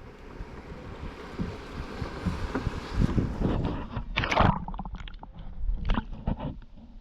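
Water splashing in irregular strokes from a kayak paddle, loudest about four seconds in and again near six, over low wind rumble on the microphone.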